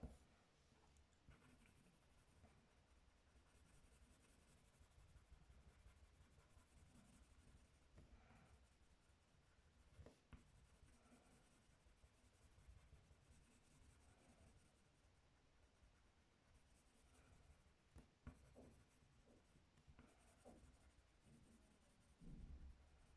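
Faint scratching of a coloured wooden pencil on card, coming and going in strokes, with a few light taps.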